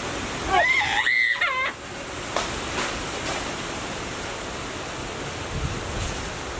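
A bird's warbling whistled call, about a second long, bending up and down in pitch, followed by a steady rushing hiss with a few faint clicks.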